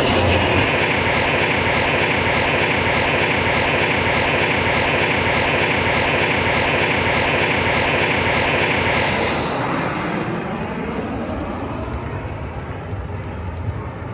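An aircraft engine roaring loudly as a plane flies past, steady for about nine seconds, then fading and falling away as it moves off.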